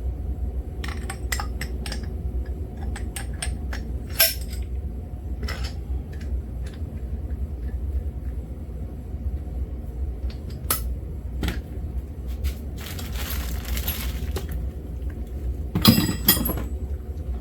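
Metal tools and engine parts clinking and tapping as they are handled on a workbench, in scattered single clicks, with a short scraping stretch and then a louder cluster of clinks near the end, over a steady low hum.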